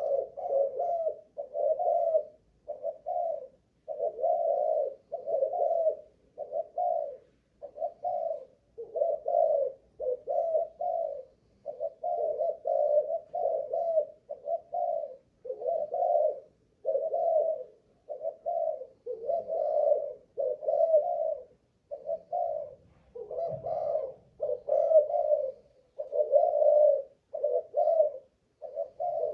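Spotted dove (Malaysian cu gáy strain) cooing on and on: a long, unbroken run of short, low coo notes, about one to two a second with only brief pauses between phrases.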